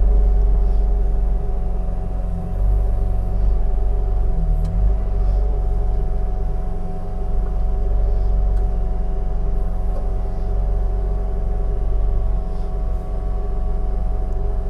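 Engine of heavy log-splitting machinery running steadily at constant speed: a low rumble with a steady hum over it.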